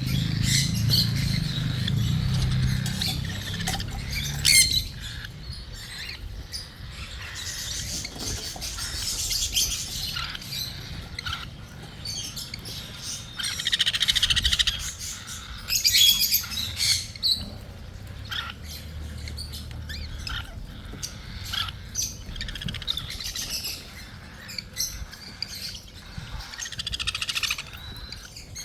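A cockatiel being hand-fed, giving raspy, pulsing begging calls in bouts, with short clicks in between.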